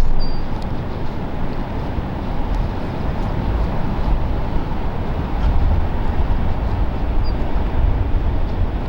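Steady coastal wind and ocean noise with a heavy, uneven low rumble of wind buffeting the microphone. A bird chirps briefly near the start and again about seven seconds in.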